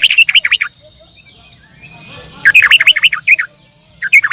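Canaries singing in short, loud bursts of rapid chirping notes, one at the start, one about two and a half seconds in, and another just before the end.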